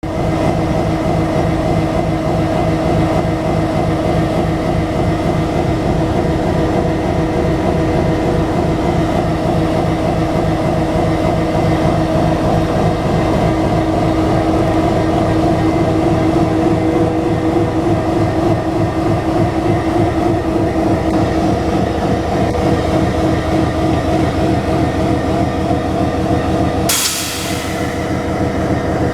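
EMD SD38ACE diesel-electric locomotive engine running loudly and steadily, a mix of engine rumble and held tones, the jet-like sound it is known for. About 27 seconds in there is a short, sharp hiss-like burst, after which the sound is slightly quieter.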